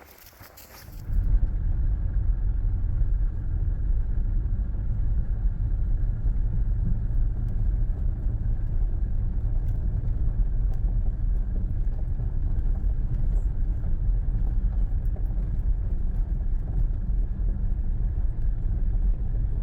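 Steady low rumble of a car driving, heard from inside the cabin: road and engine noise. It cuts in abruptly about a second in.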